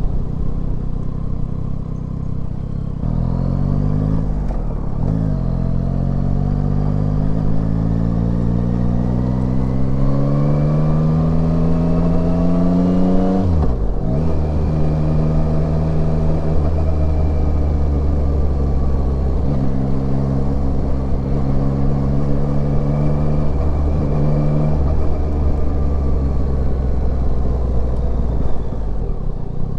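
Yamaha Tracer 9's inline-three engine pulling hard, its pitch rising steadily for about eight seconds, dropping sharply at a gear change about fourteen seconds in, then holding steady at cruising speed with a few brief dips.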